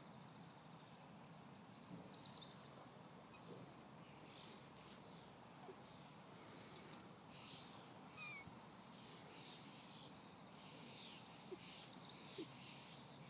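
A songbird singing: a thin, even trill followed by a quick run of high, falling notes, given twice about ten seconds apart. Fainter high bird calls come in between.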